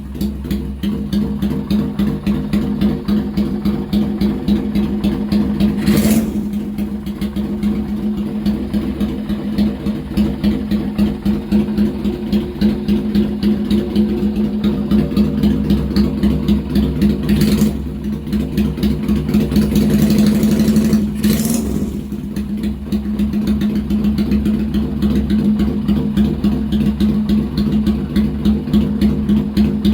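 A motorcycle's 250 cc V-twin engine taken from a Yamaha Virago, idling with a steady, pulsing exhaust beat. Three short, sharp louder sounds stand out over it, at about six, seventeen and twenty-one seconds in.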